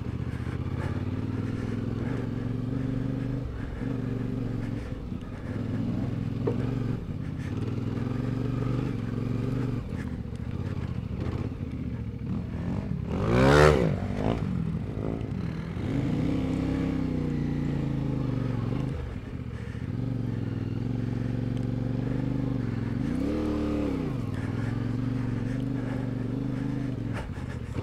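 CFMOTO 450MT's parallel-twin engine running steadily as the motorcycle is ridden on a dirt track. The revs rise and fall several times as the throttle is worked, and the sharpest, loudest rev comes about halfway through.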